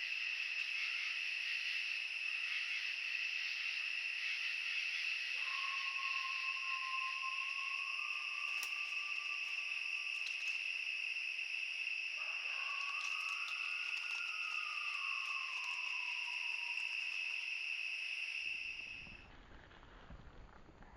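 A steady, high-pitched insect buzz that holds unchanged for about eighteen seconds, then fades out near the end. Two faint whistled notes sound over it, one about five seconds in and a longer falling one about twelve seconds in.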